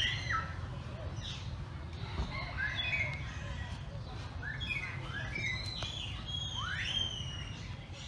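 Several birds chirping and calling in short, overlapping rising and falling notes, with a longer upward-sweeping call near the end, over a low steady rumble.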